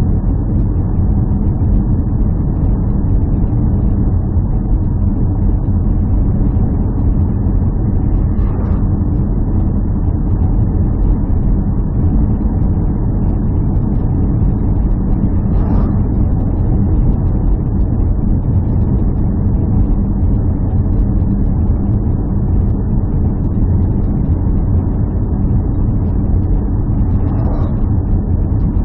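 A steady, loud, low engine drone with a constant hum in it, and three faint brief higher sounds: one about a third of the way in, one just past halfway and one near the end.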